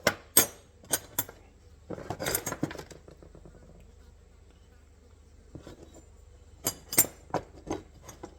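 Steel parts of an MB 550 foothold trap clinking and clanking against each other as they are handled and fitted together: a few sharp knocks at the start, a rattling cluster about two seconds in, and more knocks near the end.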